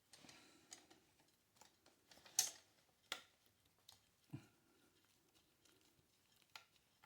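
Faint, scattered clicks and taps of small metal parts and a tool being handled while refitting a gas water heater's burner assembly, about six in all, the loudest about two and a half seconds in.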